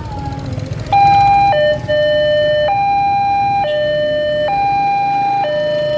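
Railway level crossing warning alarm switching on about a second in: a loud electronic two-tone signal alternating between a higher and a lower pitch roughly once a second, warning of an approaching train. It is a replacement alarm, not the crossing's original Siemens alarm. A low rumble of traffic runs underneath.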